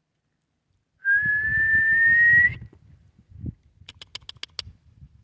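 A person whistles one loud, steady note, rising slightly in pitch, for about a second and a half, starting about a second in. Near the end comes a quick run of sharp clicks.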